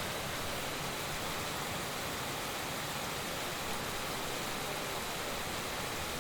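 Heavy rain falling steadily, an even hiss with no breaks or separate drops standing out.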